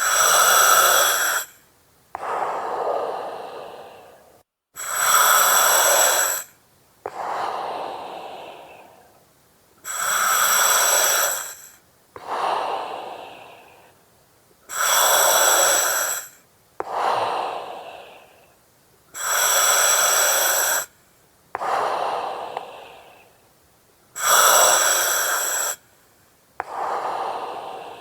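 A person breathing slowly and evenly through an oxygen mask, each breath a hiss through the mask and regulator. About six breaths in and out, the breath one way starting and stopping abruptly with a ringing hiss, the breath the other way fading out.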